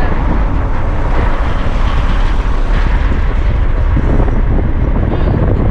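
Car driving on the road: a steady low rumble of engine and tyre noise, with wind buffeting the microphone.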